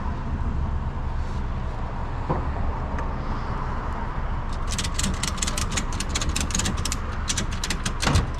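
A vehicle engine idling steadily under a run of rapid, sharp clicks starting about halfway through: a ratchet tie-down strap being cranked tight to hold a load down.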